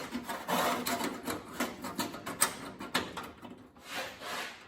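Metal clicks, taps and scrapes as a sheet-metal panel clamp is worked into the seam between a patch panel and the cab's sheet metal, with a short spell of scraping about half a second in and another near the end.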